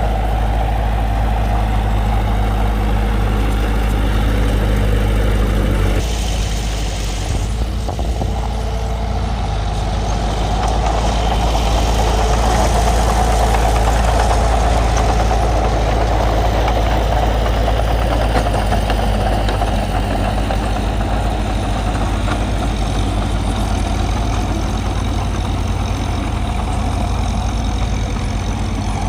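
Bulldozer's diesel engine running steadily, with a deep rumble; the sound shifts abruptly about six seconds in and then carries on.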